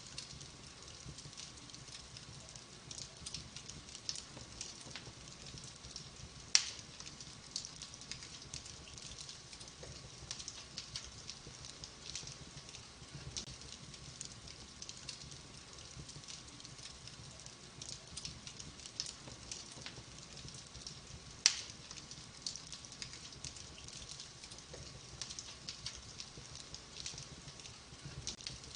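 Wood fire crackling in a fireplace: a steady run of small snaps and ticks, with two sharp, louder pops, one about six and a half seconds in and one about twenty-one seconds in.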